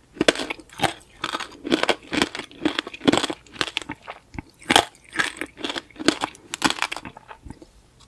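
Close-up eating sounds of tanghulu: the hard sugar-glass coating on the fruit cracking and crunching between the teeth as it is chewed, in quick, irregular crunches several times a second.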